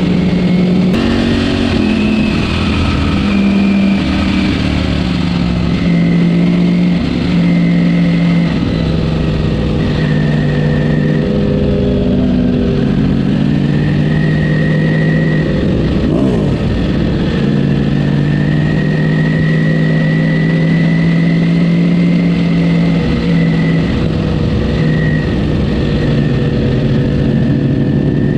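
Ducati Panigale V4 S's V4 engine on its stock exhaust, running under way, its note stepping up and down in pitch as the throttle and gears change.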